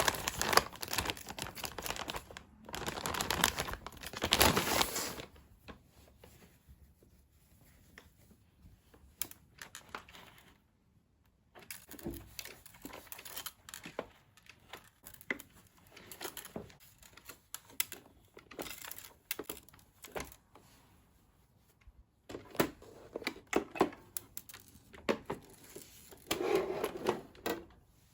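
Handling noises from robot vacuum parts being cleaned by hand: bursts of rustling and scraping with many small plastic clicks and knocks, busiest at the start and again near the end.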